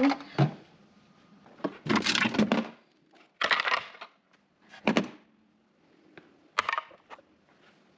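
Frozen items and packaging being handled in a freezer: about five short bursts of clattering and crinkling, with quiet gaps between.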